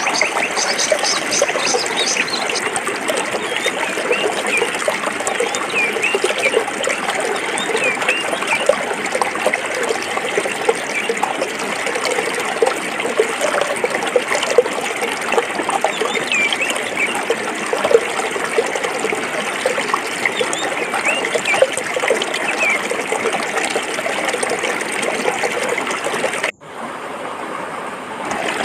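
A forest stream flowing over rocks, a steady rush with bubbling and gurgling. Near the end the sound suddenly drops away and comes back about two seconds later.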